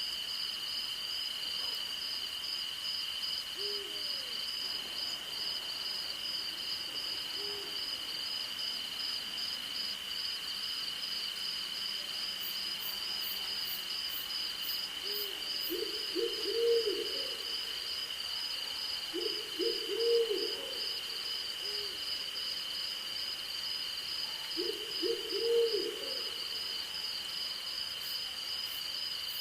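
An owl hooting: a few faint single hoots, then three louder bouts of several quick notes in the second half. Underneath is a steady chorus of crickets and other insects, one continuous high trill and a higher pulsing one.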